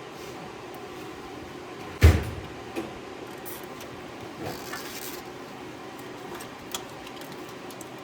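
One heavy thump about two seconds in, followed by a few light clicks and knocks over a steady background hum: handling noises from work on a car's wiring harness.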